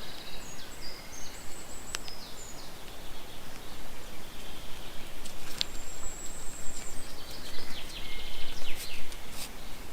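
Wild birds singing: a series of short high whistled notes and trills, with one longer held note about six seconds in, over a steady outdoor hiss. A couple of sharp clicks sound in between.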